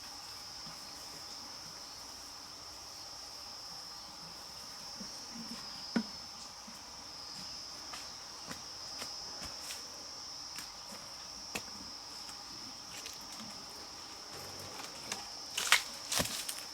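Steady high-pitched trilling of crickets or other insects, with scattered light clicks and a short cluster of louder knocks near the end.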